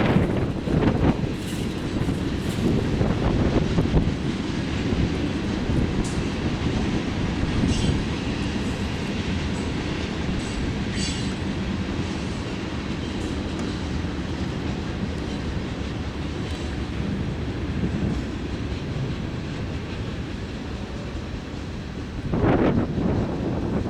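Freight train cars rolling past, a steady low rumble with wheels knocking over rail joints in the first few seconds and faint high wheel squeal about eight to eleven seconds in. A louder rush of noise comes near the end.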